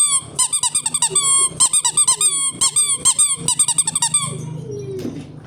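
Toy's electronic squeaky chirping sound effect: a rapid string of short, high, falling chirps, several a second, that stops about four seconds in.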